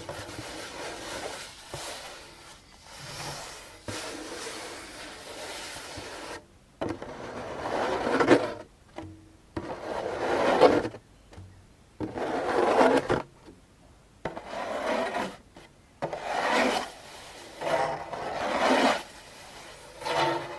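A djembe being rubbed and scratched by hand: slow, swelling strokes that rise and fade about every one and a half to two seconds, after softer rubbing at the start.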